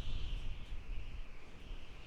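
Howling desert wind: a gusty low rumble under a high, wavering whistle that fades near the end.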